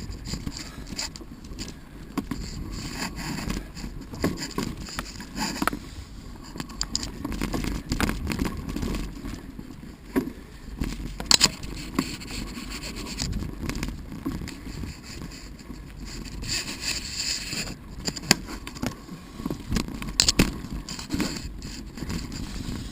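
Mountain bike rolling over a dirt and gravel trail: steady tyre crunch and rumble with scattered rattles and sharp knocks from the bike, the loudest about 11, 18 and 20 seconds in.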